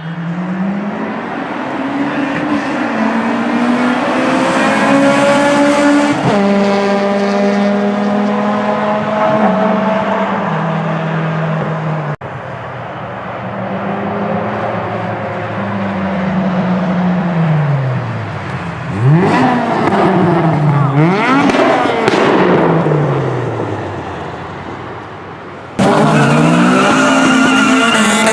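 Car engine revving and accelerating. Its pitch climbs over the first few seconds, then drops in steps. Later it falls away and is blipped quickly up and down a few times around two-thirds of the way in. The sound changes abruptly twice.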